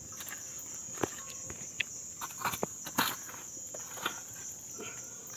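Crickets chirping steadily, with a few irregular sharp clicks and knocks, the loudest about a second in and about three seconds in.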